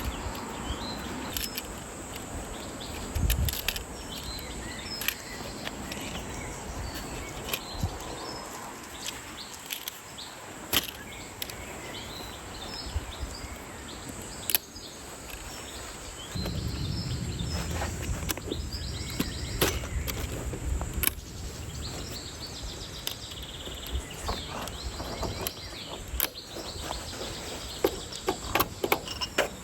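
Outdoor forest ambience with birds chirping now and then and scattered sharp clicks and taps close by. A low rumble comes in about halfway through and stays.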